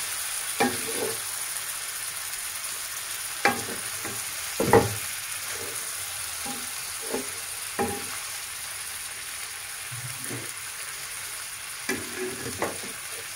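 Chicken drumsticks sizzling steadily as they fry in oil with an onion-and-tomato masala. A spatula stirs against the pan, giving a scattered handful of short scrapes and knocks.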